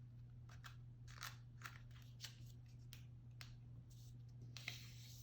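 Faint crinkling and soft ticks of a sheet of paper being folded and creased by hand, in a scatter of short bursts over a low steady hum.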